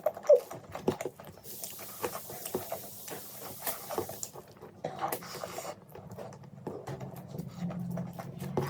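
Close-miked eating sounds: chewing with wet mouth clicks and smacks, a hissy stretch in the middle and a low hum coming in near the end.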